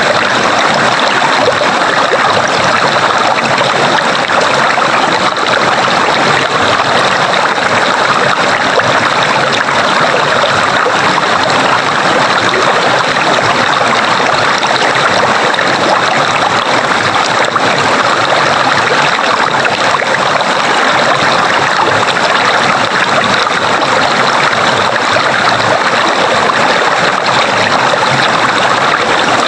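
Running water of a stream, a steady even rush that does not change.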